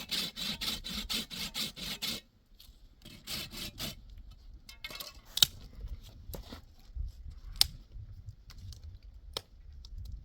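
Rapid rhythmic scraping strokes, about five a second, for two seconds. A shorter run of strokes follows, then a few scattered sharp clicks and knocks.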